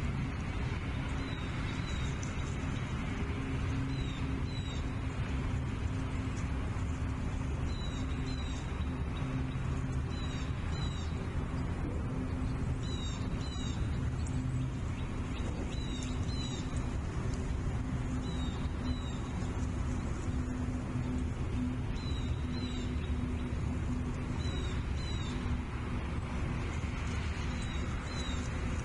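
Bald eagles calling at the nest: short, thin, high calls, often two quick falling notes together, repeating every two to three seconds over a steady low hum.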